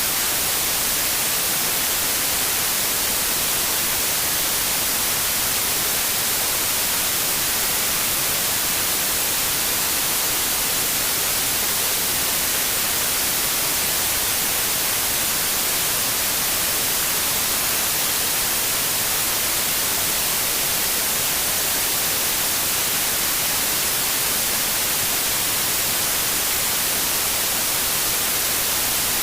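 Steady white noise: an even hiss across all pitches, strongest in the treble, with no change or break.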